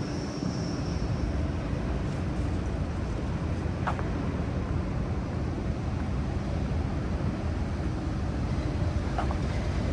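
Steady city street traffic noise from a busy multi-lane road, with two short high sounds, one about four seconds in and one near the end.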